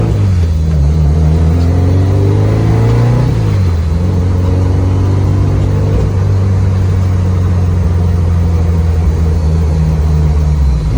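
Built turbocharged flat-four engine of a gutted, caged Subaru Impreza, heard loud from inside the stripped cabin under hard acceleration. The revs climb for about three seconds, drop at a gear change, then climb slowly again until another drop near the end.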